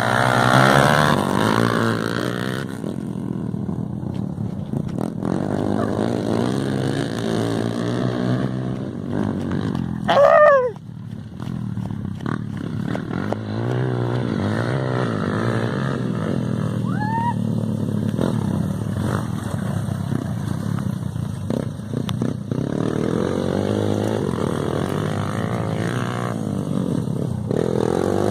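Dirt bike engine running and revving on a motocross practice run, its pitch rising and falling as it accelerates and passes. About ten seconds in, a brief louder tone slides down in pitch.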